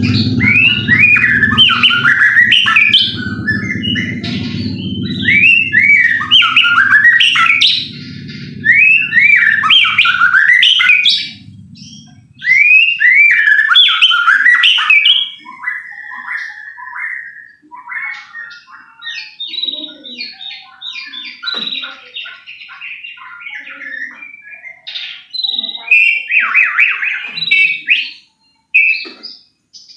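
White-rumped shama singing a loud, varied run of whistled phrases and sweeping notes. For the first dozen seconds a low hum sits under the song, then stops, and the song turns into shorter, choppier notes.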